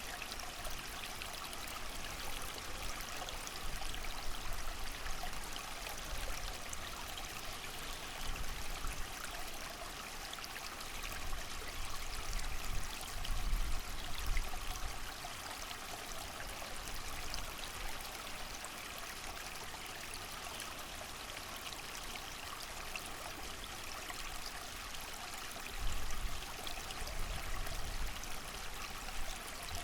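A small creek running steadily with rain falling, an even rushing hiss. Low gusts of wind swell up a few times, most strongly about halfway through and again near the end.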